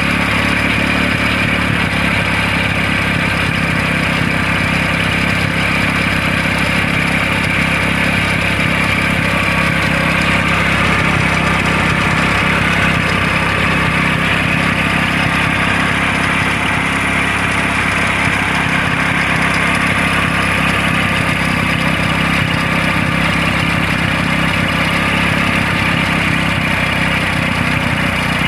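Motorcycle engine running steadily at a constant speed, driving a water pump.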